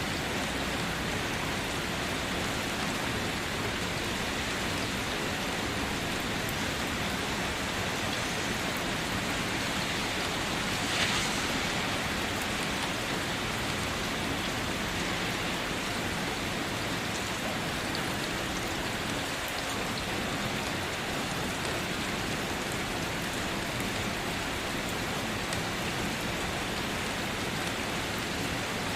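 Steady rain falling, a dense even patter of drops, with one slightly louder drip about eleven seconds in.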